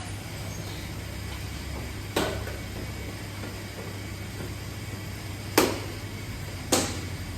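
Three sharp knocks, about 2, 5.5 and 6.7 seconds in, the middle one the loudest, over a steady low hum.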